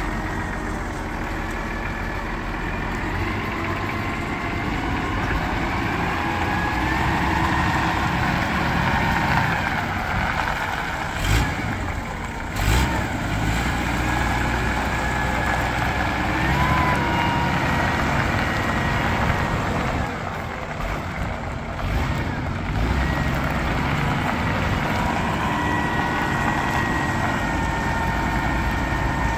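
Cat D70 diesel forklift running, with a wavering whine over the engine sound and two sharp knocks about 11 and 13 seconds in.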